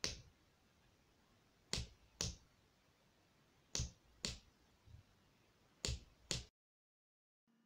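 A hammer driving a nail: sharp strikes in pairs about half a second apart, a pair roughly every two seconds.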